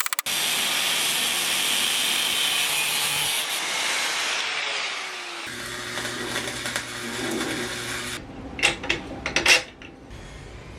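Power-tool abrasive grinding: a steady loud grinding noise with a low motor hum, in a few short clips that change abruptly. Near the end come several sharp scraping strokes.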